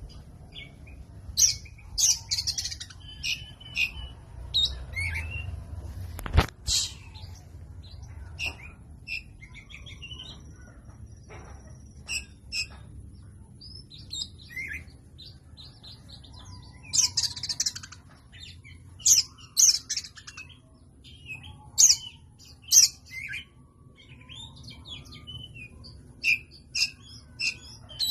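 Oriental magpie-robin (kacer) giving short high chirps and brief song phrases in scattered bursts, with one sharp knock about six seconds in.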